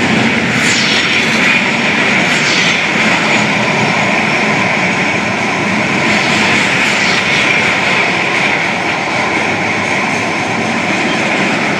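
Freight train of crude oil tank cars rolling past below: a steady, unbroken noise of steel wheels on rail.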